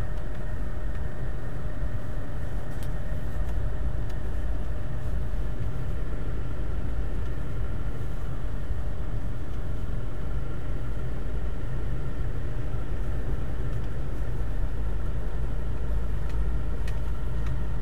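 Lada Kalina wagon driving slowly in first gear, heard from inside the cabin: a steady low engine and drivetrain rumble with a thin steady whine over it. The engine and gearbox oil are still cold from a −33 °C frost.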